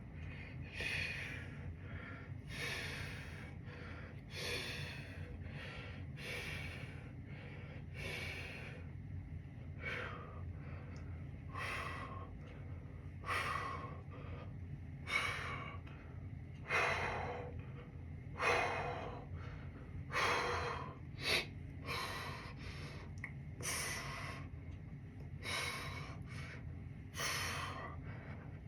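A man breathing hard through an arm workout, with sharp exhaled breaths about every one and a half to two seconds: exertion from lifting.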